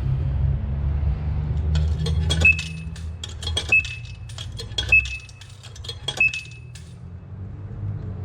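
Coins fed one at a time into a self-serve car wash coin box, each dropping with a metallic clink followed by a short electronic beep, four times about a second apart. The payment buys wash time. A low rumble runs underneath and fades about halfway through.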